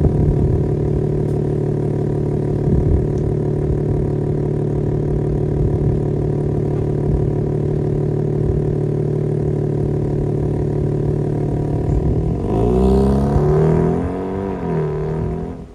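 BMW M3 Competition's S58 twin-turbo inline-six idling steadily through an equal-length mid pipe and valved exhaust. About twelve seconds in, the revs climb and swing up and down a few times.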